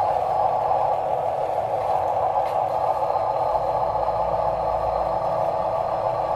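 Small electric motors and plastic gearboxes of RC toy construction vehicles whining steadily, with a deeper hum joining in from about three and a half to five and a half seconds in.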